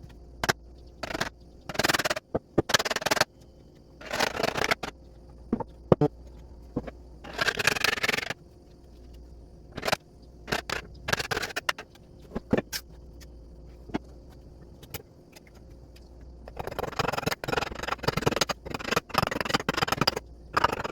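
Irregular scraping strokes of a hand tool, each lasting about half a second to a second, with sharp clicks and knocks in between and a longer run of strokes near the end.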